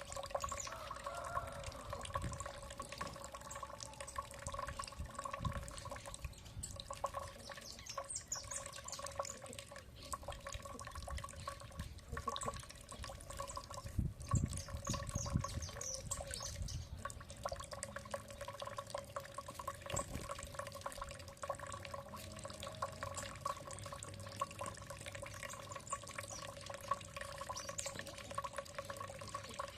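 Water dripping and trickling with a steady hum underneath, while small birds give short high chirps a few times.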